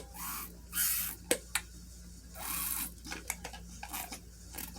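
Handling noise from a plastic toy garbage truck: a few sharp plastic clicks, and two short rubbing or scraping bursts about a second in and again past the two-second mark.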